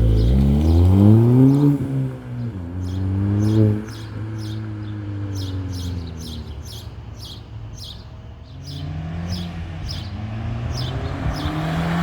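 Ford Fiesta ST's turbocharged 1.6-litre four-cylinder through a Thermal R&D 3-inch catback exhaust: it revs up, the revs drop about two seconds in, it revs up again, eases back, and near the end builds revs once more. A light ticking, about twice a second, runs through the middle stretch.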